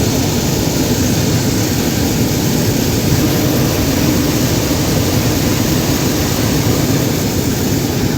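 Loud, steady roar with no clear pitch, spread evenly from deep to high, that cuts off suddenly at the very end.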